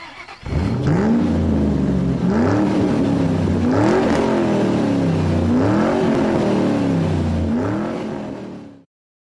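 Car engine revving, its pitch climbing and falling back about five times, then fading out and stopping shortly before the end.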